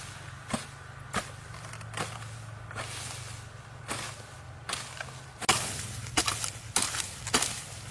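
A hand tool striking wood again and again, as in chopping or hammering. The blows are sharp and uneven, and come faster and louder for the last couple of seconds.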